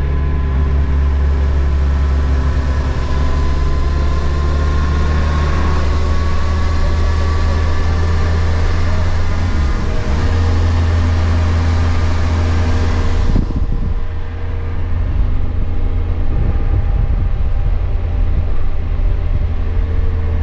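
Kawasaki Versys motorcycle engine running at a steady road speed, with wind rushing over the microphone. The wind hiss drops away abruptly about two-thirds of the way through, while the engine hum carries on.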